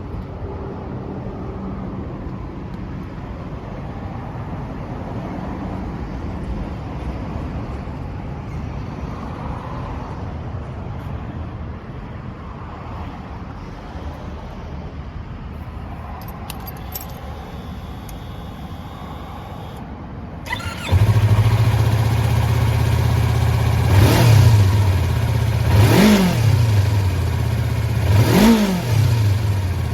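Low background noise and a few faint clicks, then a Yamaha YZF-R25's 249 cc parallel-twin engine starts about two-thirds of the way in and settles into a steady idle. It is then revved three times in short throttle blips, each rising and falling back to idle.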